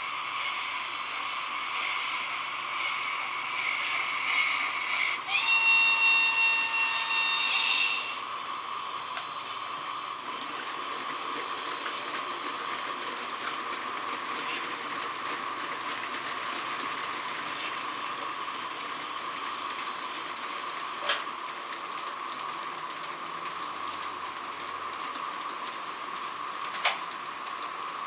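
H0 model trains running on the layout: a steady hum of motors and wheels on the track. About five seconds in, a sound-decoder steam-locomotive whistle sounds for about three seconds. Two sharp clicks come later, about six seconds apart.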